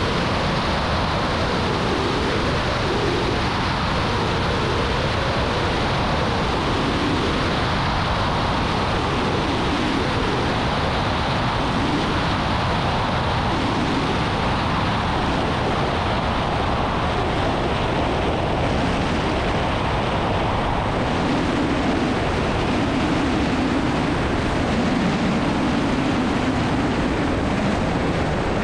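Light piston airplane's engine and propeller running steadily, a dense, even drone as heard inside the cabin in flight.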